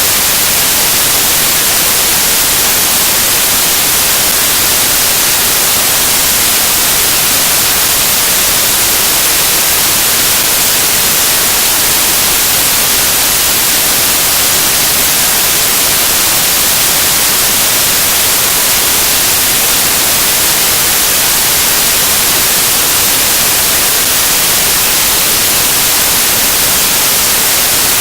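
Loud, steady static hiss like white noise, unchanging throughout, with no speech or other sound in it.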